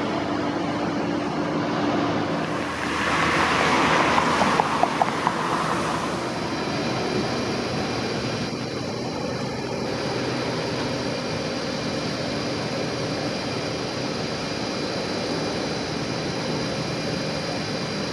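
Steady outdoor traffic noise, with a louder vehicle passing about three to six seconds in.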